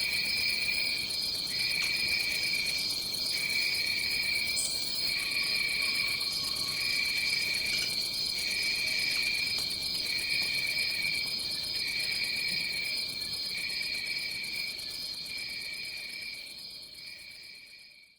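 Rainforest insect chorus. A steady high trill runs beneath a lower trill that breaks off and starts again about every one and a half seconds, and the chorus fades out at the end.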